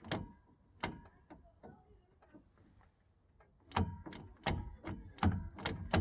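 Metal clunks and clicks of the bus's gear-shift linkage being worked back and forth while the transmission refuses to go into gear. A few scattered knocks come first, then from about four seconds in a quicker, louder run of clunks, roughly two a second.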